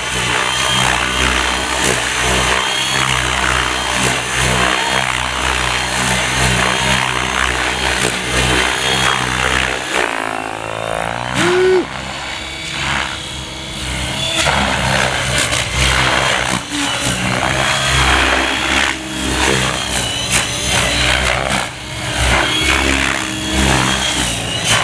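Gaui X7 electric RC helicopter flying 3D aerobatics at low head speed: steady rotor drone with a high motor and gear whine. About ten seconds in the sound drops away and sweeps in pitch, then builds back.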